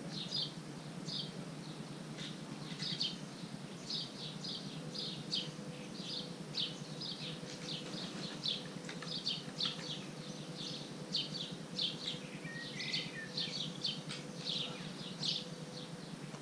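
Small birds chirping: short high chirps repeating irregularly, two or three a second, over steady outdoor background noise. A faint steady tone runs through the middle.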